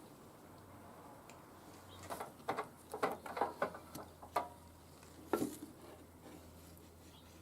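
Small metal parts being handled on a workbench: a quick run of light clicks and clinks about two seconds in, then one more clink a second later.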